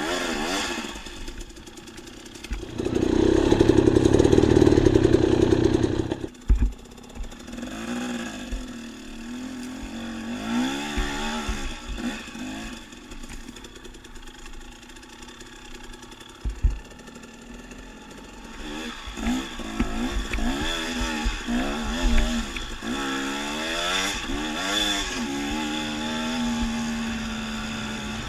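Dirt bike engine running and being revved up and down over and over, its pitch rising and falling, with a loud burst of throttle about three seconds in and a couple of sharp knocks.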